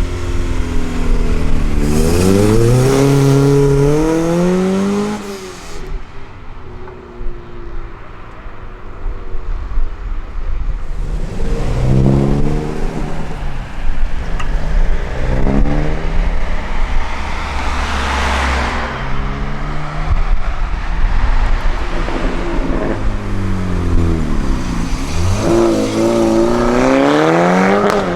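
Performance vehicle engines accelerating hard one after another, each engine note climbing steeply and dropping back as it shifts gear, over a steady low engine rumble.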